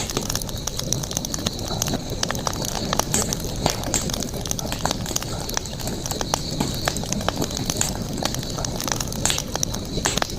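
Campfire burning, with frequent sharp crackles and pops over a low rumble, and a steady high-pitched tone behind.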